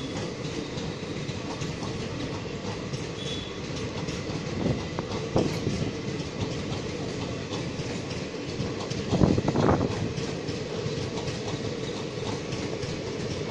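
Passenger train coaches rolling past on the rails in a steady rumble, growing louder for a moment about nine seconds in.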